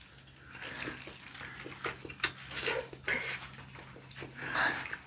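Close-miked chewing of boiled chicken: irregular wet mouth smacks and small clicks, with a breathy hiss about four and a half seconds in.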